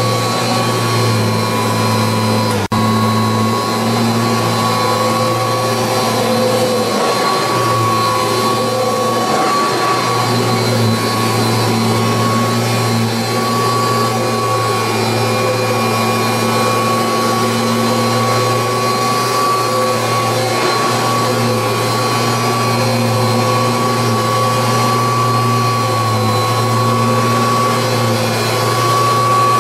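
1986 Kirby Heritage 2 upright vacuum cleaner running steadily: a loud motor whine over the rush of suction air. It breaks off for an instant about three seconds in.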